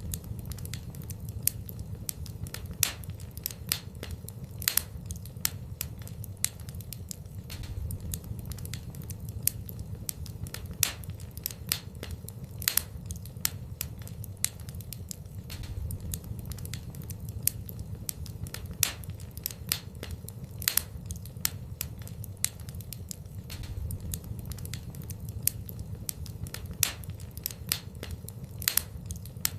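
Fire burning in a fireplace: irregular sharp crackles and pops, several every few seconds, over a low steady rumble.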